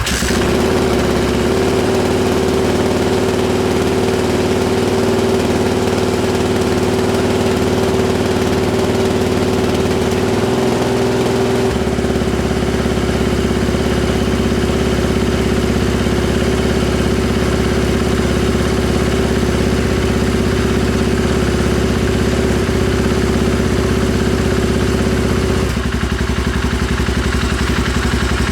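Suzuki DR350's single-cylinder four-stroke engine, breathing through a loud Danmoto aftermarket straight-through exhaust, starting from cold and then idling steadily. Its idle note shifts about twelve seconds in and again near the end.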